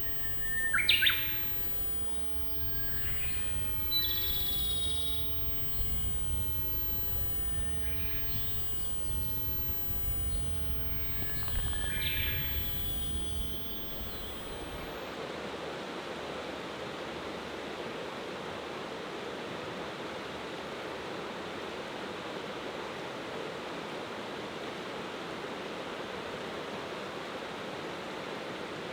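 Wild birds calling now and then, loudest a sharp downward-sliding call about a second in, over a low rumbling background. About halfway through this gives way to the steady rush of a mountain river flowing.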